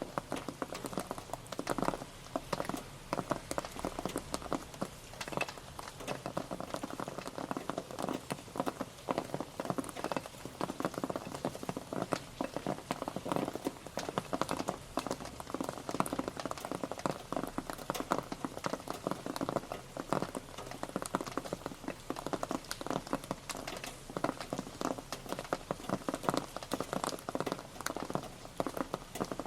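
Steady rain pattering on a surface: a dense, irregular spatter of individual drops hitting without let-up.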